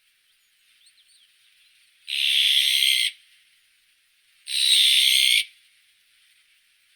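Azure-winged magpie giving two harsh, rasping calls about a second long each, a couple of seconds apart. A few faint chirps come about a second in, over a faint steady hiss.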